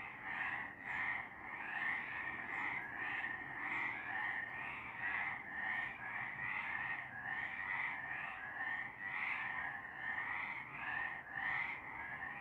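Several frogs calling together in a continuous chorus, their calls overlapping in a steady run of about two a second.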